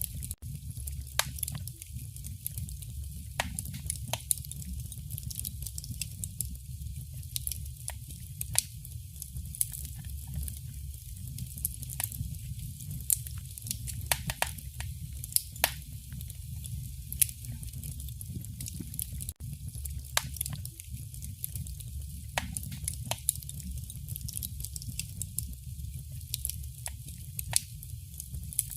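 Wood fire burning in a fireplace, crackling with irregular sharp pops and snaps over a steady low rumble and hiss.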